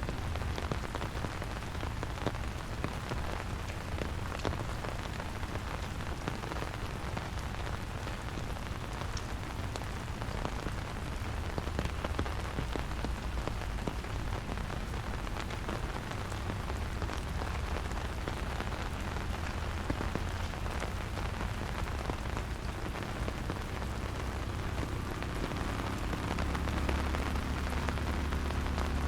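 Steady rain falling, a dense patter of drops, over a low rumble that grows louder near the end.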